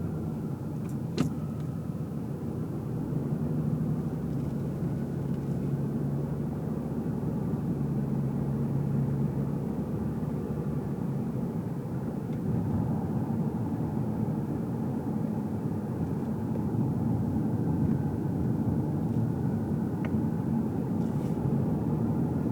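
Car driving, heard from inside the cabin: a steady engine hum under tyre and road noise, with one sharp click about a second in.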